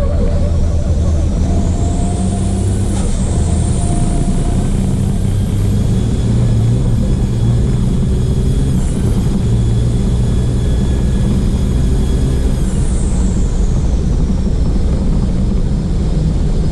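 Race truck's diesel engine running hard at racing speed, heard through an onboard camera mounted on the truck, steady and loud, with a faint high whine that rises early on and falls away near the end.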